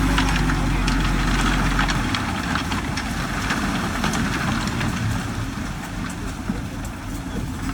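Diesel engine of heavy earthmoving machinery running. A steady low hum breaks into a rougher rumble about two seconds in, with scattered clanks, and slowly gets quieter.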